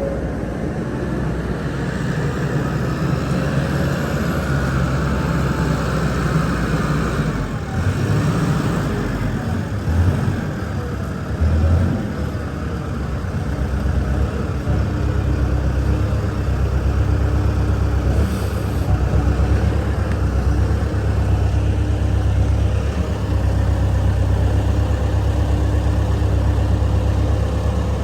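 Forklift engine running as it unloads dumpsters from a box truck, with two short thumps about ten and twelve seconds in.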